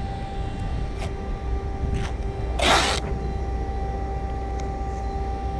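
Masking tape ripped off its roll in one short rasp about two and a half seconds in, over a steady low hum.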